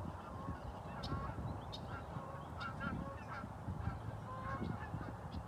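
Geese honking in short calls, several times, over a steady low rumble with a few faint ticks.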